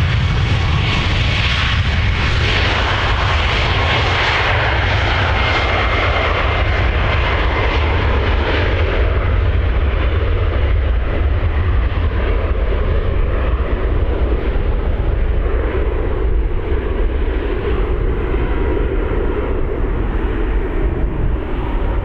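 Jet airliner's engines at takeoff power as it climbs away, a loud steady rumble. The high hiss fades after about nine seconds, leaving mostly the low rumble.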